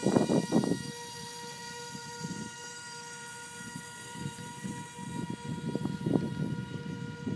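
Small electric toy-airplane motors and propellers of a homemade RC airboat running with a steady high whine at one even pitch. Uneven rough noise sits under it, loudest in the first second and again near the end.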